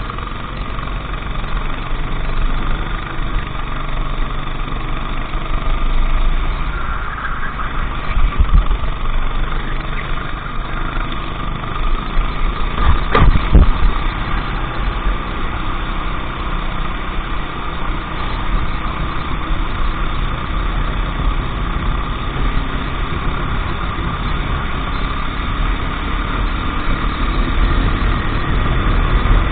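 Go-kart engine running steadily, with a loud knock about thirteen seconds in.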